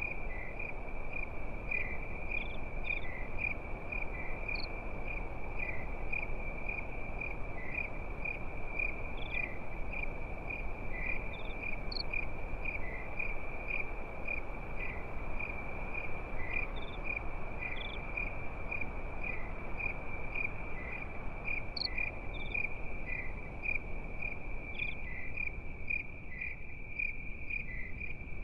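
Crickets chirping at night: a continuous high trill that swells about twice a second, with a few short higher chirps now and then, over a low even hiss.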